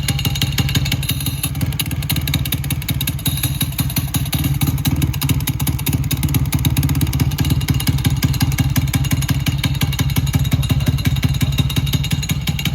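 Custom 124cc Honda Monkey single-cylinder engine, breathing through a KTM 690 muffler, running at a steady idle with an even, fast firing beat.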